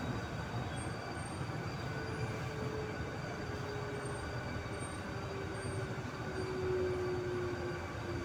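Steady running and rumble heard inside an MTR East Rail line R-train car. From about two seconds in, a faint whine slowly falls in pitch.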